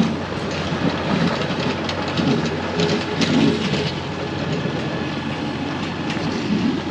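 Heavy snow-clearing machine's engine running steadily, with rattling and repeated clanks from the machine and its plow.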